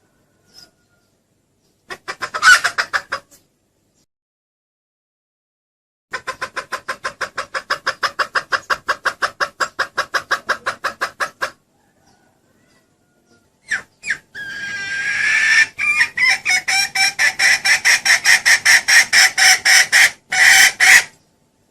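Female junglefowl clucking in rapid runs of about five clucks a second: a short burst, then two long runs, the last one opening with a longer drawn-out note.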